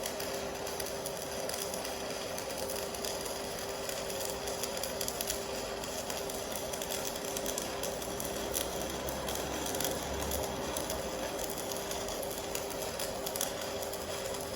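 Electric welding arc from an AC/DC TIG inverter welder: a steady hissing crackle with a constant hum.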